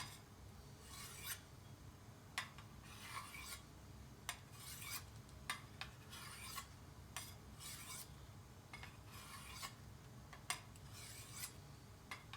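A knife blade being drawn across a hand-held diamond sharpening stone: a series of short gritty scraping strokes, about ten in all, with light clicks between them. The blade is very dull.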